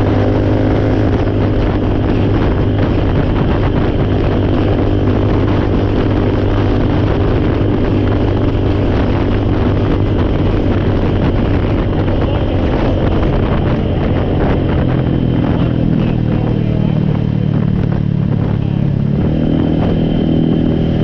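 A four-wheeler's engine running continuously, its pitch shifting as engine speed changes about two-thirds of the way through.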